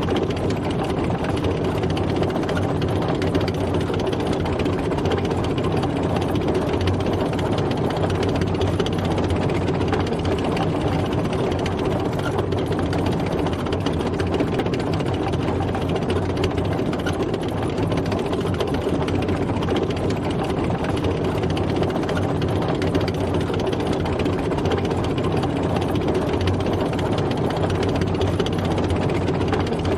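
Military tank driving, its engine running with a steady, even low drone that does not change.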